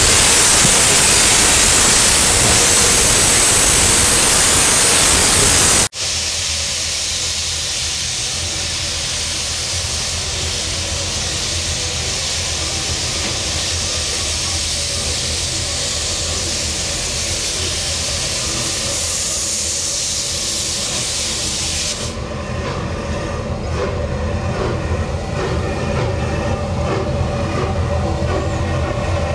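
Steam train: a loud, steady hiss of escaping steam, cut off abruptly about six seconds in and followed by a softer hiss over a low rumble. The hiss stops about 22 seconds in, leaving the low rumble of the train cars on the rails.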